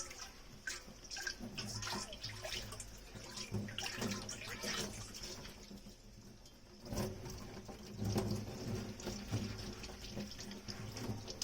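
Dishes being washed by hand in a kitchen sink: water running and splashing, with short clinks and clatters of dishes throughout. It eases off a little past halfway, then picks up again.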